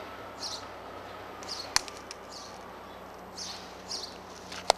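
A small bird chirping again and again, short high chirps roughly every half second to a second, over a steady background hum. Two sharp clicks stand out, one about two seconds in and one at the very end.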